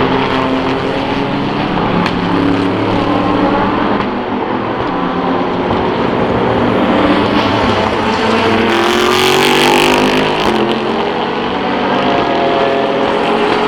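SUPER GT race cars accelerating out of the final corner onto the main straight, several engines running at once with their pitch rising as they pull away. A louder rushing hiss comes about two-thirds of the way through.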